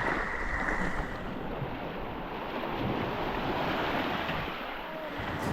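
Sea waves and wind blowing across the microphone, a steady rushing noise.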